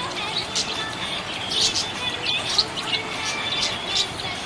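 Budgerigar chirping: a string of short, high chirps.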